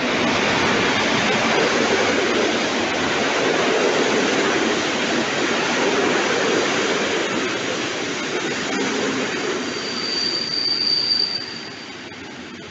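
Electric locomotive of class EP07 and its passenger coaches passing close by, a loud steady rush of wheels on rail. A high-pitched metallic squeal rises over it for about a second and a half near the end, then the noise falls away.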